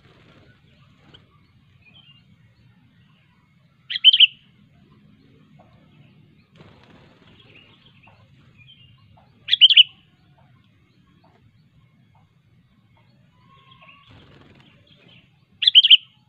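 Sooty-headed bulbul giving three short, sharp calls about six seconds apart, with faint, scattered chirps from other birds in between.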